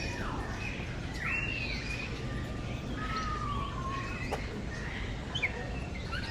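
Several birds calling and chirping: an arched call about a second in, a long gliding note around three seconds, and short chirps near the end, over a steady low background hum.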